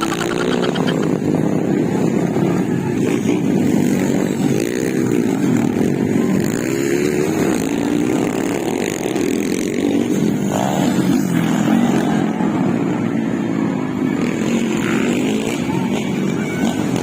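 Motocross dirt bike engines revving, their pitch rising and falling as the throttle is worked on the course.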